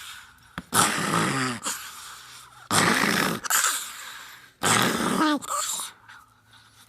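Small dog growling and snarling in three rough bouts of about a second each, each trailing off with a falling pitch.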